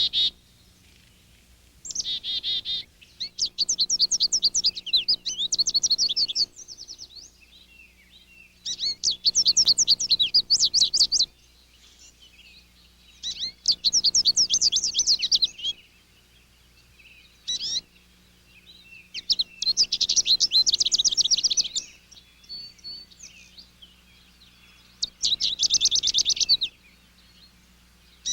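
A songbird singing: a high, fast, trilling song of two to three seconds, repeated about six times with short pauses between.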